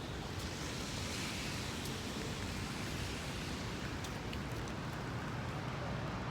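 Wind and rain noise on a city street, with traffic hissing by on the wet road. A swell of hiss builds about half a second in and fades after about three seconds.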